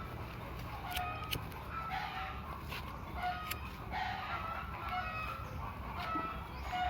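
Village chickens clucking in short calls that repeat about once a second, with a few sharp clicks.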